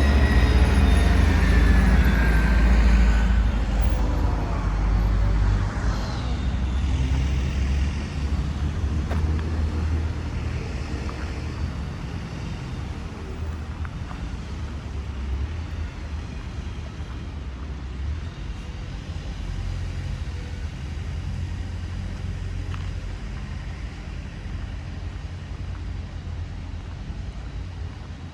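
City street traffic: vehicles passing with a heavy low rumble, loudest for the first several seconds, then easing into a steadier, quieter hum.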